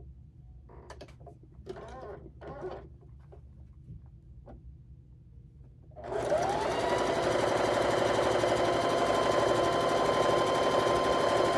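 Faint handling clicks and fabric rustle, then about six seconds in an electric sewing machine starts and runs fast and steady, stitching quilt pieces; its motor whine rises quickly and then holds one pitch.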